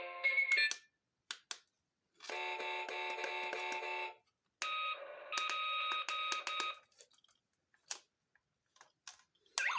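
Electronic beeping tones in two blocks of about two seconds each, with short sharp clicks before, between and after them.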